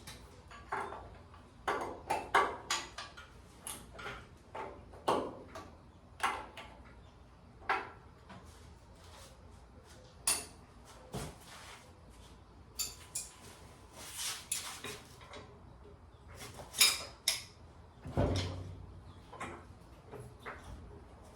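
Hand tools working the bolts that join a Ford 2N tractor's transmission and rear end: irregular metallic clinks, knocks and short scrapes of wrench on bolt and cast iron, with a heavier thud near the end.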